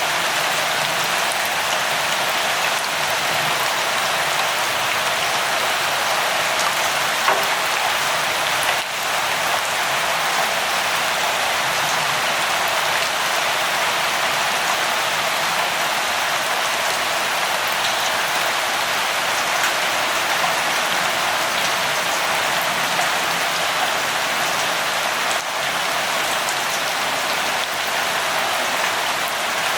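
Steady light rain falling on a surface, an even patter with occasional individual drops.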